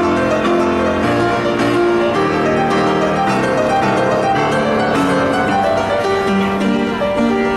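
Public street piano playing a classical piece: a continuous run of quick notes over a sustained bass line.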